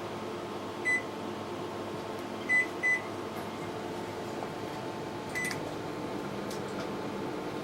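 LG microwave oven's keypad beeping as it is set: one beep about a second in, two quick beeps around the third second, then another beep with a click a couple of seconds later, over the oven's steady hum.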